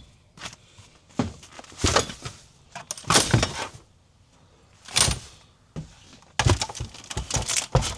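A car being loaded up: car doors and gear being handled, a string of separate clunks and knocks about a second apart, with a quick run of clattering near the end.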